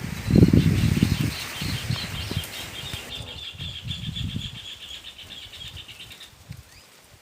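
A bird's wings flapping in irregular bursts, strongest in the first few seconds and dying away, with a steady high trill above that stops near the end.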